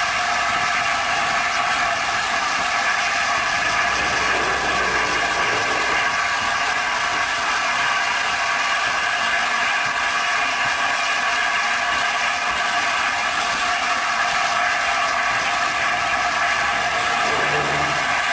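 Steady noise from a steam-hauled train behind the LNER Peppercorn A1 locomotive Tornado, a continuous hiss with faint steady tones that hardly changes.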